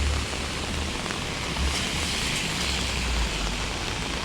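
Steady hiss of heavy rain mixed with the rush of a swollen, fast-rising river, with uneven low rumbling underneath.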